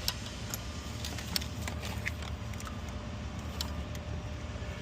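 Scattered light clicks and taps of plastic wiring-harness connectors being unlatched by hand, their locks slid back and tabs pushed in, over a steady low hum.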